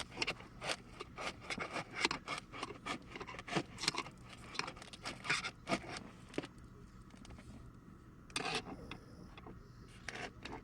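A hand tool scraping and cutting at the foam insulation around an RV water heater tank, in quick, irregular strokes. A quieter pause follows, then another short burst of scraping about eight and a half seconds in.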